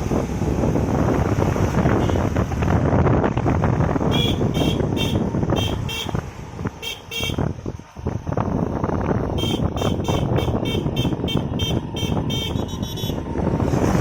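Wind and road rush on a moving motorcycle, with two runs of short high-pitched beeps, about four or five a second, a few seconds in and again past the middle.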